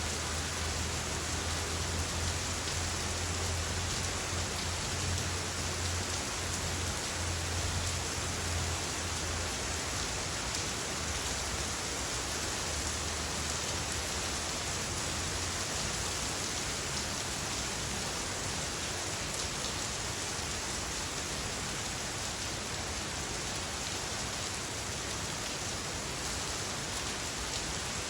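Heavy rain falling steadily and pattering on surfaces, with a low rumble underneath that fades out about halfway through.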